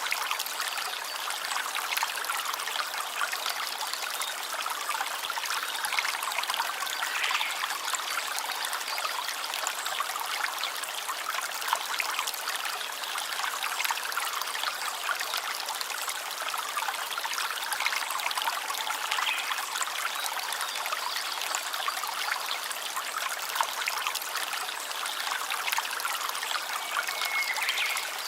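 Stream water flowing, a steady babbling trickle with no pauses.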